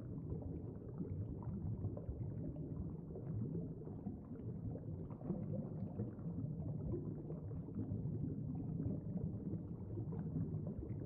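Muffled underwater ambience: a low, steady rumble with faint bubbling and crackling.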